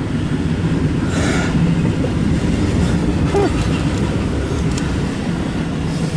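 Steady low rumble of a CSX freight train and its diesel locomotives, with a droning note throughout.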